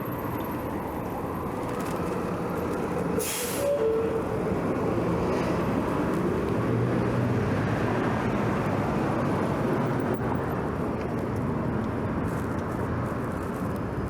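Steady road and traffic noise heard from a bicycle riding among city traffic, with a short sharp hiss about three seconds in and a passing vehicle whose pitch slides a couple of seconds later.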